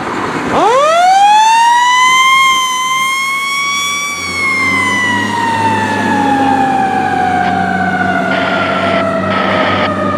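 Fire engine siren winding up fast to a high pitch, holding for a few seconds, then slowly falling in pitch, sounded for a code 3 emergency response. The truck's engine runs underneath once the siren starts to fall.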